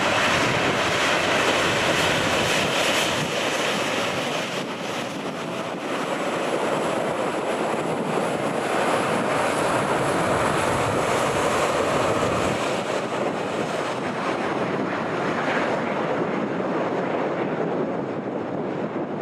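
Jet airliner engines making a steady, broad roar with a faint high whine, mixed with wind buffeting the microphone; the engine sound eases off near the end.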